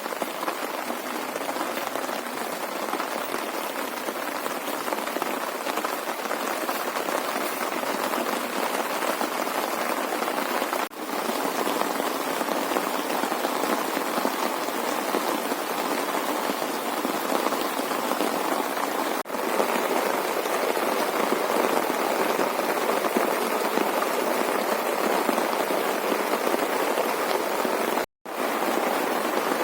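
Heavy rain falling, a steady, dense hiss, with a couple of slight breaks and one brief full cutout near the end.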